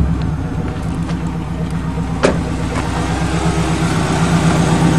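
Subaru flat-four boxer engine idling steadily, running smoothly on gas almost two years old after long sitting. A single sharp click about two seconds in.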